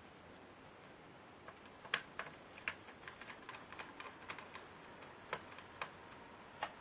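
Irregular sharp clicks and taps of small laptop parts being handled during disassembly, about a dozen over four seconds, the loudest about two seconds in.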